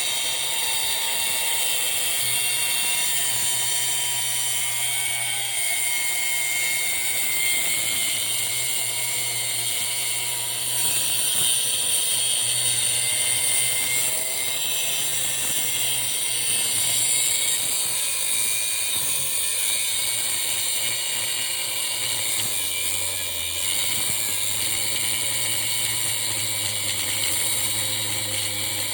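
Angle grinder running and cutting through the metal of a window air-conditioner unit: a steady, loud, high-pitched whine that shifts a little in pitch as the blade bites.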